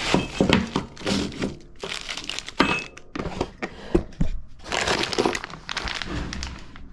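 Handling noises: an irregular run of clinks, knocks and rustling as small hard parts are picked up and moved about.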